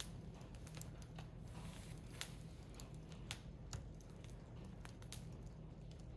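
A wood fire burning in a Picogrill fire pit: irregular sharp crackles and pops from the burning firewood over a low, steady rumble.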